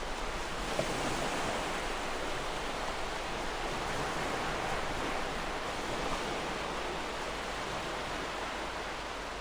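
Gentle ocean waves washing on the shore, a steady wash of surf that swells a little about a second in and eases off toward the end.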